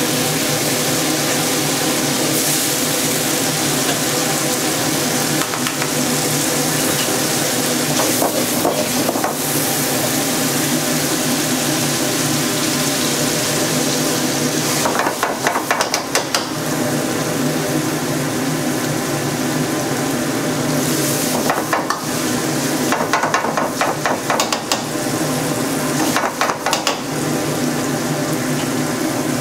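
Fermented black beans frying in oil in a wok, a steady sizzle. Every few seconds a metal ladle scrapes and clatters against the wok as they are stirred.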